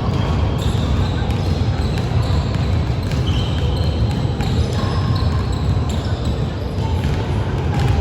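Basketball game noise in a gym hall: a ball bouncing on the court amid players' voices, with a steady din and echo.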